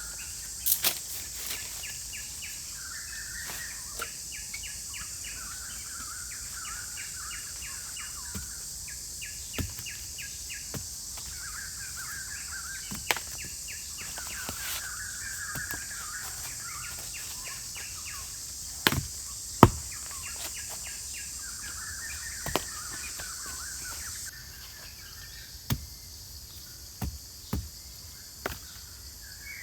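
Forest ambience: a steady high insect drone with birds singing short warbling phrases every few seconds. A few sharp knocks sound now and then, the loudest pair near the middle, and the high drone drops lower near the end.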